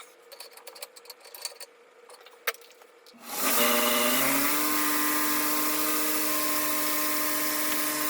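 A few light clicks and taps of handling, then about three seconds in a VFD-driven 2 hp electric motor on a 2x72 belt grinder starts the buffing-wheel attachment spinning. It ramps up in pitch for about a second and then runs steadily with a hum and whine.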